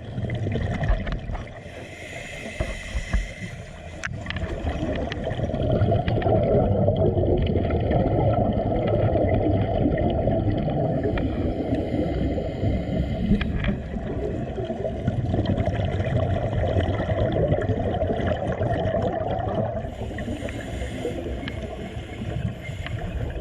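Muffled rushing and gurgling of water, with a few sharp clicks in the first few seconds.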